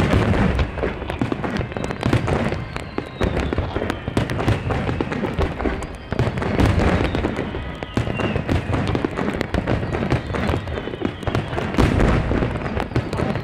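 Large fireworks display: a dense, continuous barrage of aerial shell bursts and crackling, with a few falling whistle tones among them.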